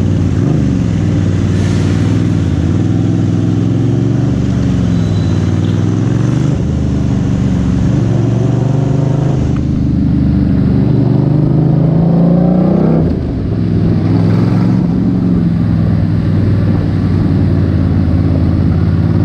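FKM Coolser 500 motorcycle running through a straight-pipe exhaust while riding. The engine note rises and falls with the throttle several times, climbing longest from about ten seconds in and then dropping suddenly about thirteen seconds in.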